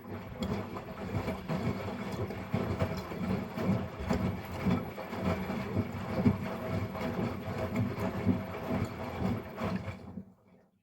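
Miele Professional PW 6065 Vario washing machine's drum turning during the final rinse. The motor hums steadily under the uneven slosh and tumble of water and the wet load. It starts abruptly and stops about ten seconds in, one turn of the rinse cycle's drum rhythm.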